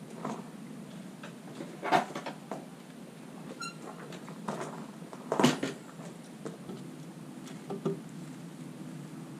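Scattered knocks and clatters of objects being handled, the loudest about five and a half seconds in, over a steady low hum, with a brief squeak about three and a half seconds in.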